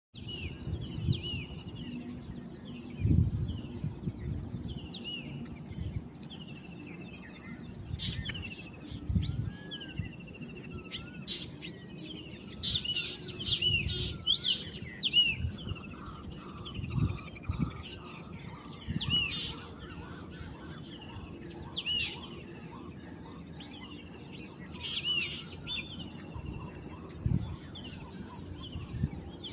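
Several birds calling in a village morning chorus: many short, repeated chirps, with a lower wavering call joining in around the middle. Low thumps come and go under the birdsong.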